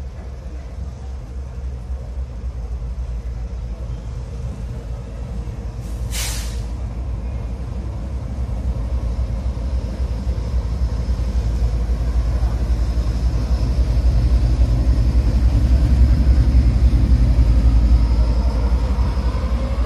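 Diesel locomotive hauling a passenger train slowly into a station: a low engine rumble that grows louder as it draws near and passes close by. A short sharp hiss of air cuts in about six seconds in.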